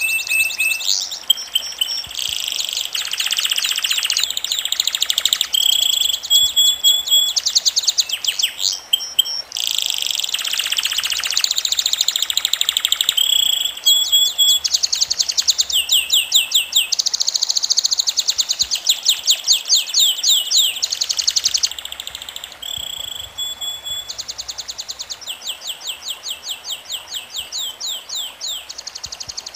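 Birds singing: a continuous run of high-pitched songs, many of them fast trills of repeated falling notes, mixed with short whistled notes.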